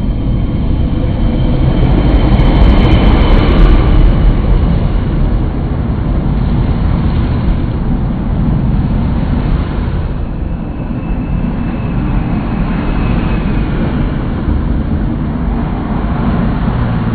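Heavy multi-trailer truck of about 68 tonnes passing close by at highway speed: a loud, continuous low rumble of engine and tyres, loudest about three seconds in, with a faint falling whine. The heavy rumble then carries on steadily.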